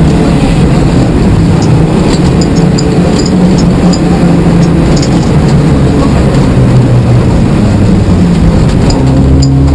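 Rally car engine under hard driving, heard from inside the cabin, its pitch stepping up and down with throttle and gear changes over loud road noise.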